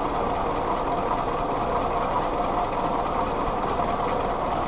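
Willys L134 Go Devil four-cylinder flathead engine idling steadily, with the distributor's vacuum advance reconnected.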